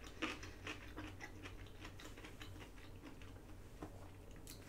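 A person chewing a mouthful of food with the mouth closed: soft, irregular wet clicks and smacks of the mouth, quiet, over a faint low room hum.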